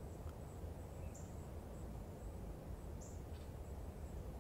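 Quiet garden ambience: two short, high bird chirps about two seconds apart over a steady low rumble and a thin, steady high tone.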